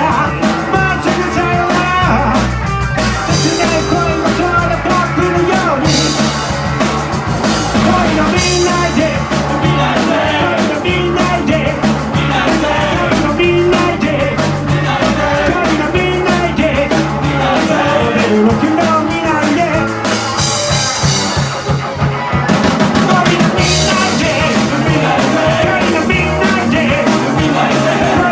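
Live rock-and-roll band playing at full volume, a drum kit driving the beat, with singing over it; the cymbals and highs drop out briefly about three-quarters of the way through.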